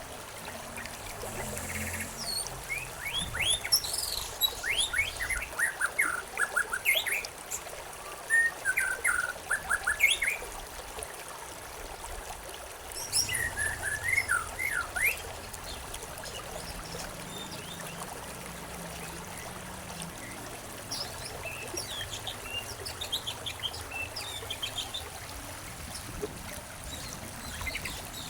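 Songbirds chirping in runs of quick, short notes, busiest in the first half and again toward the end, over a steady background of running stream water.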